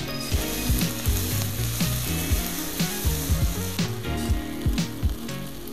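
Udon noodles, beef and vegetables sizzling in an oiled wok as they are stir-fried and tossed with tongs, with background music underneath.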